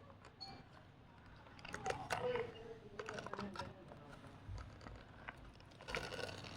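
Light, irregular clicks and knocks of small toys being handled, clustering about two seconds in and again near the end, with a brief soft voice sound.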